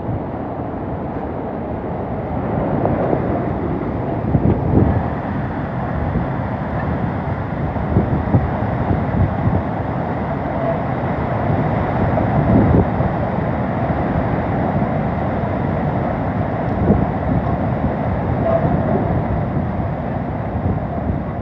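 Hurricane winds rushing and buffeting the microphone in a steady loud roar, swelling in gusts every few seconds.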